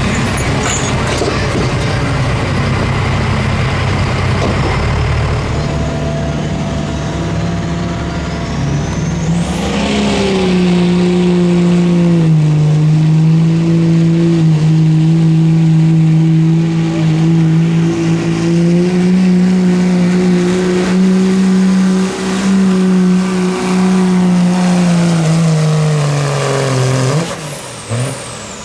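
Competition pulling vehicle's engine running hard under load as it drags the sled down the track. The pitch climbs about a third of the way in, holds high and steady, then falls and cuts off near the end.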